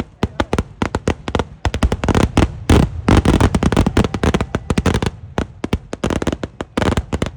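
Kerala temple-festival fireworks (vedikettu): a rapid salvo of loud firecracker bangs, several a second, thickening into an almost unbroken roll about two seconds in and thinning again to quick separate bangs near the end.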